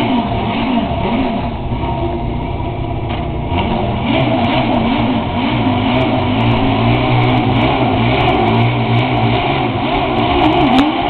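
Car engine revving, its pitch swinging up and down over and over. It grows louder about four seconds in.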